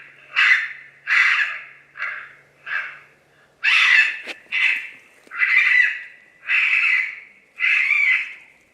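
Raccoon squaller call being run in a steady series of harsh, raspy squalls imitating raccoon fighting or distress, about one squall a second.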